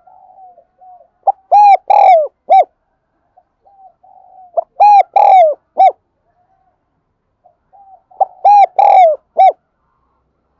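Spotted dove cooing: three song phrases about three and a half seconds apart, each opening with soft low murmured notes and ending in a few loud, short and drawn-out coos. It is a call-bird's song of the kind used to lure wild spotted doves in.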